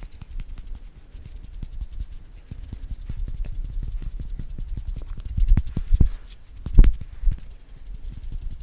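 ASMR hand sounds: hands and fingers tapping, rubbing and fluttering close to the microphone in a quick run of soft taps, with a few louder thumps past the middle.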